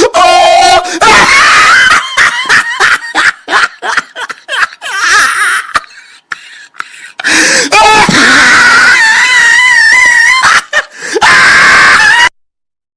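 Loud, high-pitched shrieking laughter and screaming: rapid pulsing bursts alternate with long wavering shrieks, then the sound cuts off suddenly about 12 seconds in.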